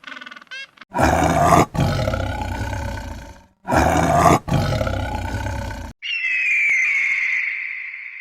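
A big cat roaring twice, each roar loud and about two and a half seconds long. About six seconds in, the roars give way to a single high whistled call that falls slightly in pitch and fades away.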